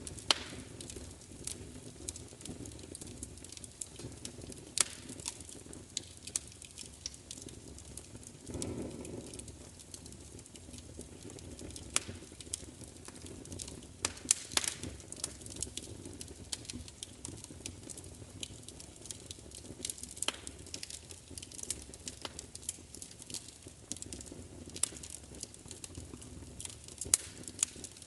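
Wood fire crackling: a steady low rush of flame with irregular sharp pops scattered through, and a brief swell of flame noise about nine seconds in.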